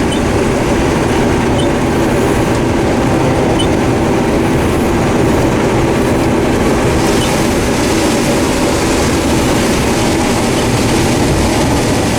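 Combine harvester running in a corn field: a loud, steady mechanical drone with a constant hum over a dense rumble.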